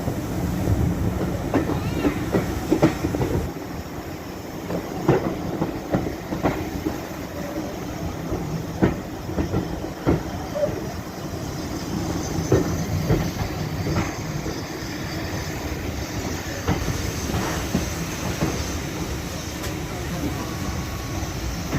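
Railway carriage running along the track: a steady rumble broken by irregular clicks and knocks of the wheels over rail joints.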